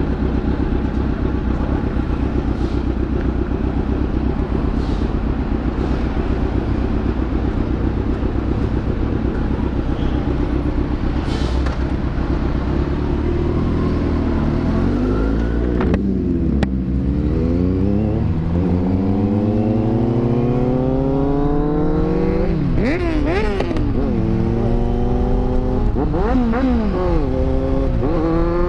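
Kawasaki inline-four sport motorcycle engine at speed, a steady high-rev drone for the first half. From about halfway it accelerates hard, its pitch climbing, with two sharp drops in pitch near the end where it shifts up a gear and climbs again.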